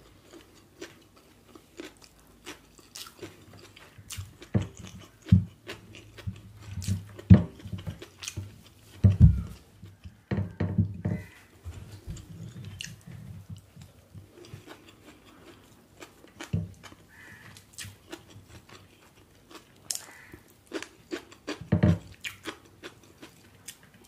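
Close-miked chewing of chicken biryani by hand, with irregular wet mouth clicks and lip smacks. The sounds come in busier clusters a few seconds in and again near the end.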